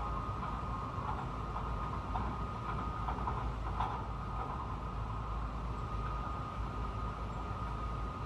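Honolulu Skyline metro train running along the track, heard from inside the front car: a steady low rumble with a steady high whine over it. Scattered light rattles and squeaks come in the first half.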